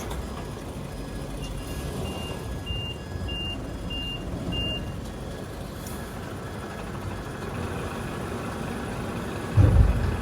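A truck's reversing alarm beeps about twice a second for some three seconds over the steady low rumble of its engine. A heavy low thump comes near the end.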